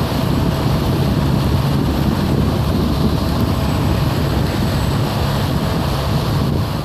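Vehicle engines running steadily with a low hum, with wind buffeting the microphone.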